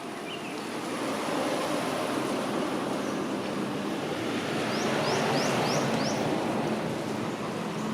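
Steady rushing outdoor noise that builds over the first couple of seconds, with a quick run of five short high chirps about five seconds in.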